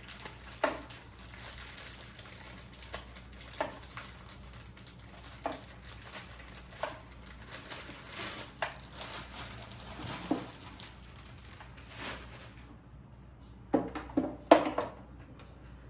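Plastic packaging crinkling and rustling as unboxed parts are handled, with scattered light knocks and a few louder knocks near the end.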